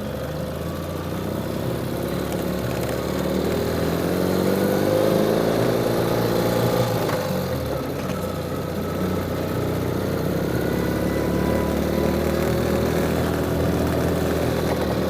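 Ural motorcycle's flat-twin engine running under way up a hill. Its pitch rises over the first few seconds, drops a little past halfway, then climbs again.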